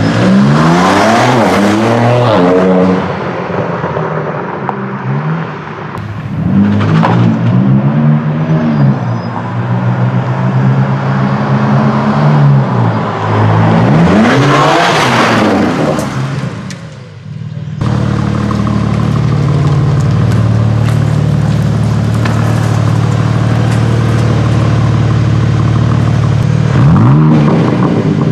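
BMW M4 Competition's twin-turbo straight-six, fitted with an Akrapovič titanium slip-on exhaust, being revved in three blips that rise and fall. A sudden change leads to steady idling, with another quick rev near the end.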